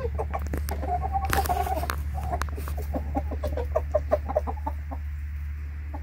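Chickens clucking in many quick short calls while feeding, with one longer, louder call about a second in. A steady low hum runs underneath.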